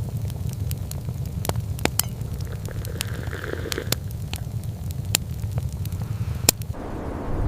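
Wood fire crackling, with sharp, irregular pops over a steady low rumble.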